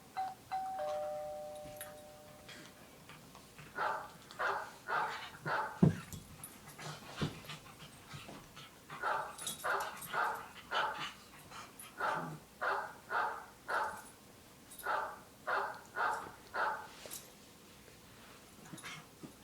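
A two-note chime tone, lower on the second note, fades out in the first few seconds. Then come runs of four to six barks, each about half a second apart, with pauses between runs. A single loud thump comes about six seconds in.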